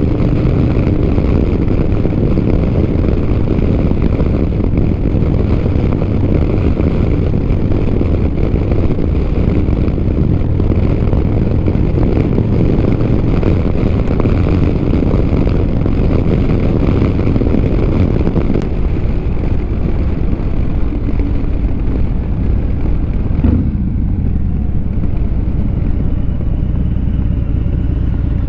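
Motorcycle engine running while riding, with heavy wind rush on a helmet-mounted microphone. The sound eases off about nineteen seconds in, and the engine note shifts a few seconds later.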